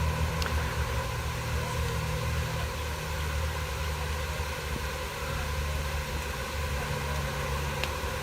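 A steady low mechanical hum, like an idling engine, with an even hiss over it. Its pitch shifts slightly a couple of times.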